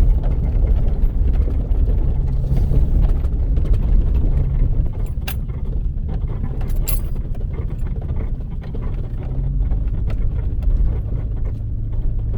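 A vehicle driving slowly along a rough dirt trail: a steady low engine and tyre rumble with scattered clicks and rattles, two sharper knocks about five and seven seconds in.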